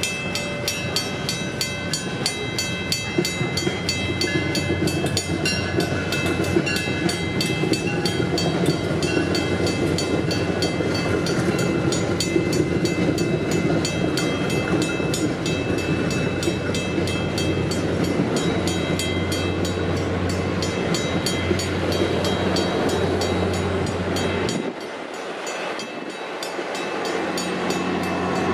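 MBTA commuter train coaches rolling through a grade crossing while the crossing's mechanical bells ring in a fast, steady beat. The deep hum of a diesel locomotive grows louder in the last third.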